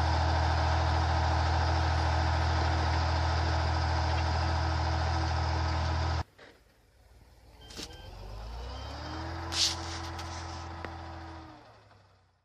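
Ural truck's engine running steadily under load, a loud low drone, as it grinds slowly through snow. It cuts off abruptly about six seconds in. A quieter engine follows, rising in pitch and then holding, with one brief sharp noise partway through.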